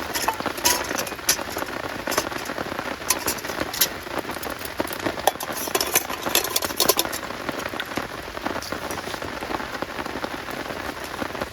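Heavy rain falling steadily, with many sharp hits of individual drops striking close by.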